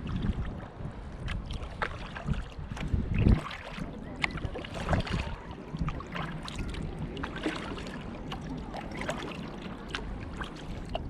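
Kayak paddle dipping and splashing in the water, with small splashes and drips throughout. Wind buffets the microphone with a low rumble for the first three seconds or so.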